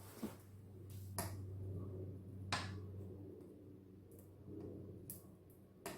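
Wood fire burning in a closed wood stove, giving a few sharp, irregular crackles and pops over a steady low hum.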